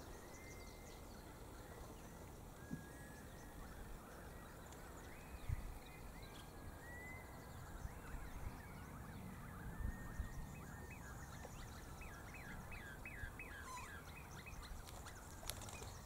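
Faint birdsong: scattered short chirps and whistles from small birds, with a rapid run of short notes late on. Two brief low thumps stand out, about a third of the way in and again past halfway.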